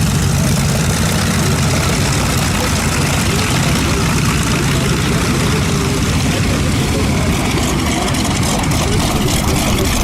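Aircraft engine noise at an airshow: a steady drone with a low hum that weakens over the first few seconds.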